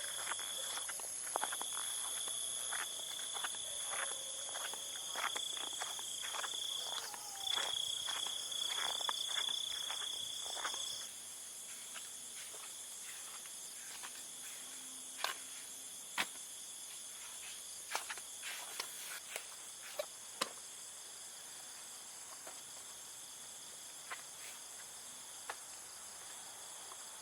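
Steady high-pitched chorus of insects, with many small clicks and knocks over the first half. About eleven seconds in, the sound drops abruptly and the lowest insect tone stops; after that only a few sharp knocks are left over the chorus.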